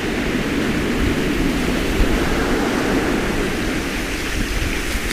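Ocean surf washing in a steady, dense rush with no distinct wave breaks standing out.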